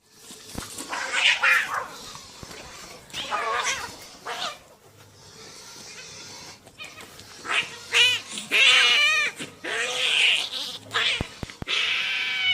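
Domestic cats yowling and caterwauling in a standoff or fight: several long, wavering howls with a warbling pitch, rising and falling, with a few sharp hisses and short pauses between them.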